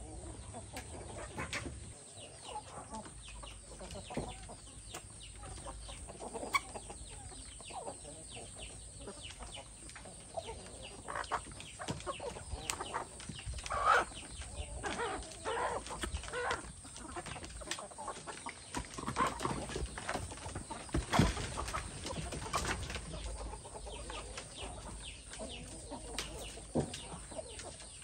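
Domestic chickens clucking, many short clucks scattered through, with a few sharp ticks among them. The loudest calls come about halfway and about three-quarters through.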